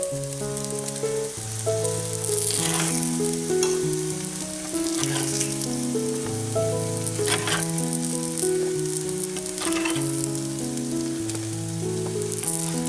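Small shrimp pancakes sizzling in oil in the cups of a cast-iron pancake pan, with a few scrapes of a metal spoon as they are lifted out. A simple melody of held notes plays over it.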